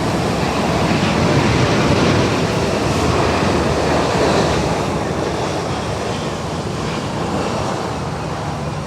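Jet airliner's engines passing close by, a loud rushing noise that peaks a couple of seconds in and then slowly fades as the aircraft moves away.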